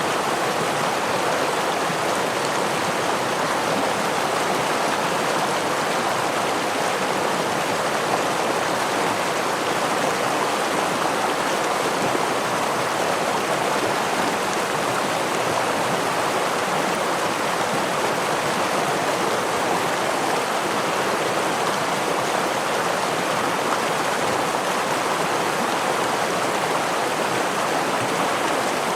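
Stream water flowing and splashing over small falls, a steady rushing sound with no change.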